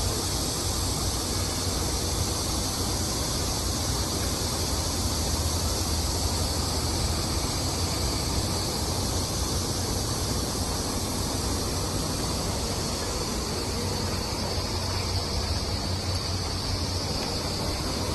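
Heavy dump truck's diesel engine idling steadily, a constant low rumble under a steady high hiss.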